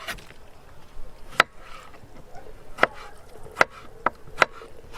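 About six sharp chopping strokes at an uneven pace, each a short, hard knock.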